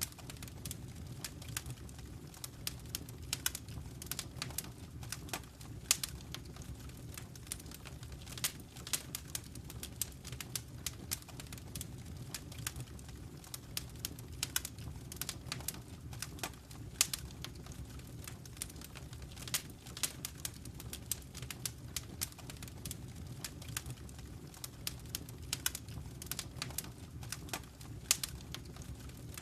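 Fire in a fireplace crackling: frequent irregular sharp pops and snaps over a steady low rumble, with a few louder pops about 6 and 17 seconds in.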